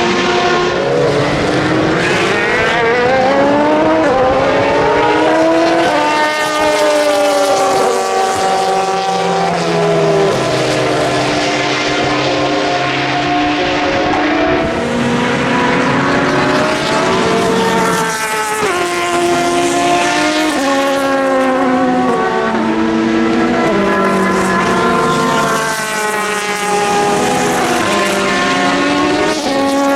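Endurance race car engines at speed on the circuit, several cars passing one after another and sometimes overlapping, their pitch climbing through the gears and dropping on the shifts and braking.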